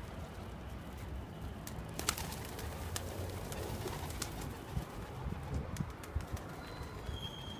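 Domestic pigeons cooing in a loft, with a few sharp clicks about two seconds in.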